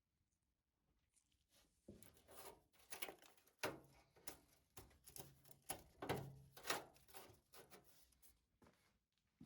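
Knocks, scrapes and clatter of washing-machine parts being handled during disassembly, starting about two seconds in after a near-silent start.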